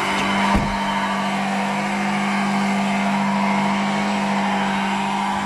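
Volkswagen Polo's engine held steady at high revs during a burnout, its front wheels spinning in place. A single knock about half a second in.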